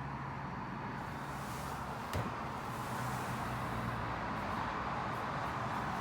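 Steady road and traffic noise with a low hum underneath, and a single sharp click about two seconds in.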